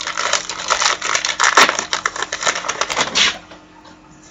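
Trading-card packaging and cards being handled: dense crinkling and rustling with small clicks, stopping suddenly about three seconds in.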